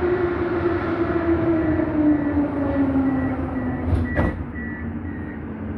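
Metro train running, heard from inside the carriage: a steady rumble with an electric motor whine that slowly falls in pitch, and two sharp clicks about four seconds in.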